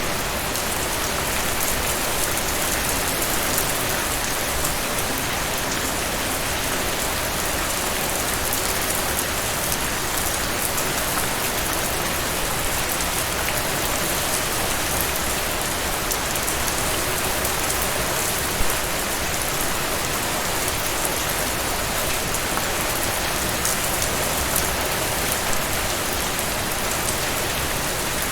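Heavy rain falling steadily, a dense even hiss of drops, with a few sharper drop hits standing out here and there.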